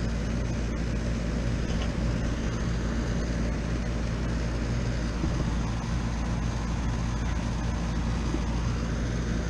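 Air-conditioning condensing unit running: the compressor and condenser fan give a steady hum under an even rushing noise. The R22 system is running low on refrigerant charge.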